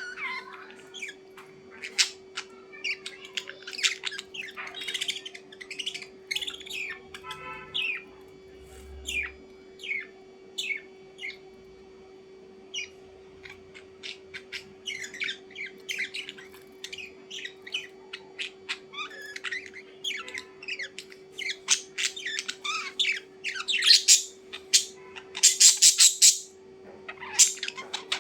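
Birds chirping and squawking in a string of short, quick calls, with louder, harsher squawks near the end. A steady low hum runs underneath.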